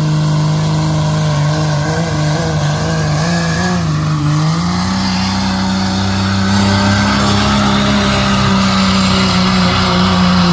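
Dodge 3500 pickup's 5.9 L Cummins inline-six turbo-diesel running hard under load while pulling the sled. Its steady drone wavers, then climbs in pitch about halfway through and holds there, growing louder.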